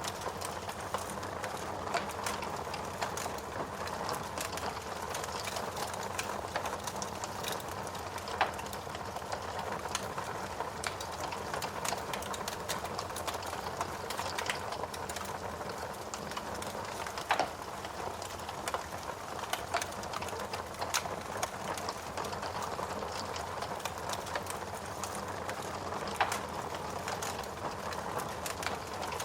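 Wood fire burning in a fireplace: a steady hiss with constant fine crackling and a few louder pops from the burning logs.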